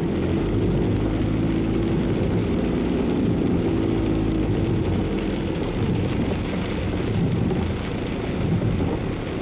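Car engine and road noise heard from inside the cabin, with rain falling on the car in a heavy downpour. The steady engine hum is clearest for about the first half, then blends into rougher road and rain noise.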